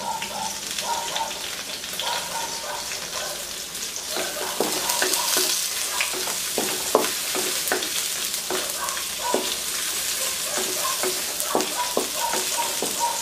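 Onion, garlic and red bell pepper sizzling in olive oil in a wok while a wooden spatula stirs them, scraping and knocking against the pan. The knocks of the spatula come thick and fast from about four seconds in.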